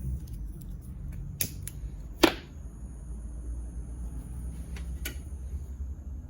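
A few sharp clicks and knocks, the loudest about two seconds in with a brief ring after it, over a low steady hum.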